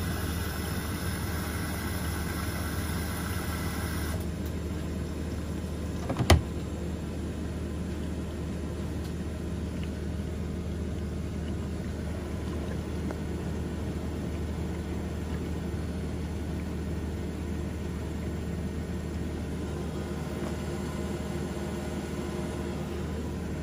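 Washing machine running between stages of a bedding wash, with a steady motor hum. A hiss stops abruptly about four seconds in, and there is one sharp click about two seconds later.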